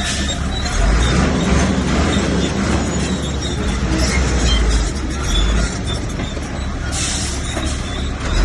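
Bulldozer's diesel engine running under load with the clank and squeal of its steel tracks; the low rumble swells now and then, with a burst of high hiss about seven seconds in.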